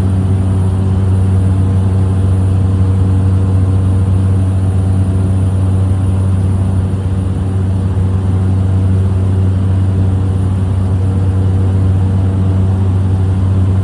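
Small propeller plane's engine and propeller droning steadily in flight, heard inside the cabin: a loud, even low hum with overtones above it.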